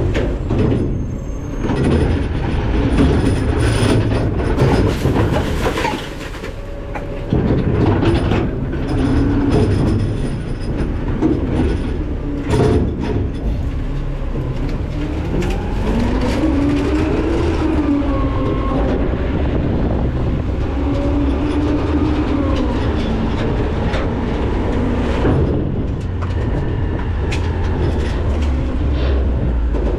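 McNeilus ZR rear-loader garbage truck working: the engine runs under a heavy, steady rumble while metal clanks and knocks come from the hopper. In the middle, a whine rises and falls in pitch several times.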